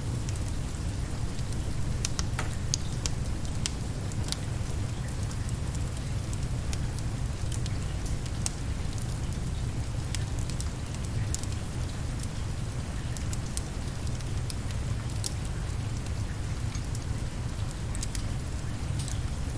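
Fireplace fire crackling, with irregular sharp pops, over the steady hiss of rain falling and a constant low rumble.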